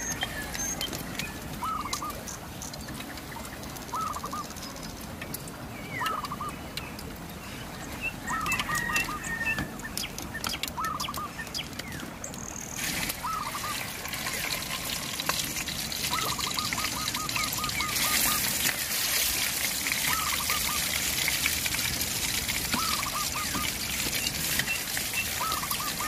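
A bird calling in short bursts of a few quick notes, repeated about every two seconds, over the steady rush of a river. The water grows louder about halfway through.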